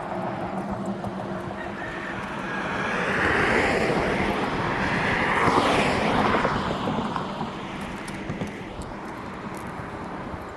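A vehicle passing by: its engine noise swells to a peak about five to six seconds in, with the pitch sweeping down as it goes past, then fades away.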